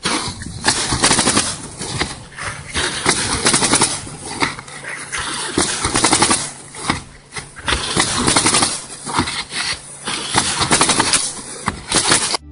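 Loud, rough machine noise with uneven surges every second or so over a low hum.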